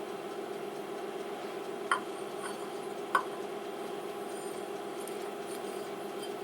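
Emco F1 CNC milling machine humming steadily, with two light metallic clinks about two and three seconds in.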